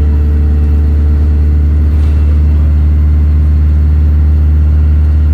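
Bus engine running steadily, heard from inside the bus: a loud, low, even drone that doesn't rise or fall.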